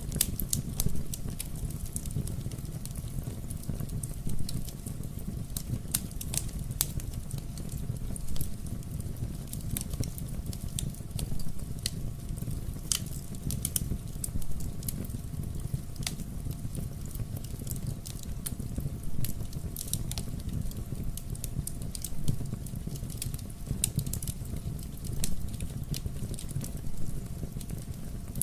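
Wood fire burning in a fireplace: a steady low rumble of the flames with irregular crackles and pops scattered throughout.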